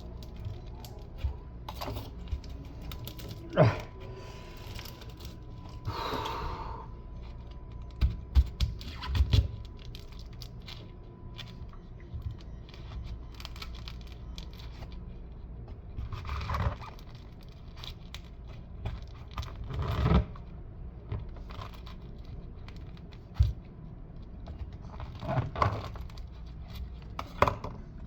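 Fibrous coconut husk being torn and pried apart by hand: irregular sharp knocks and clicks, with a few longer ripping rasps as strips of fibre come away.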